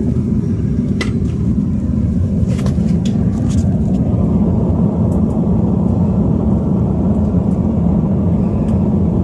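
Sigmund Store triple-burner propane gas forge running, a loud, steady burner roar, with a few faint clicks.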